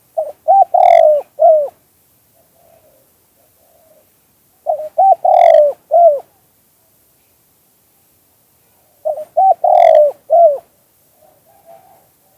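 Spotted dove cooing: three call phrases about four and a half seconds apart, each a few short coos around one longer, louder coo.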